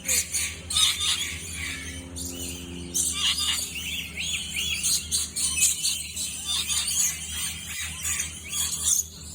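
Many birds calling at once: overlapping shrill chirps and squeals, with a quick run of repeated arching notes about three seconds in.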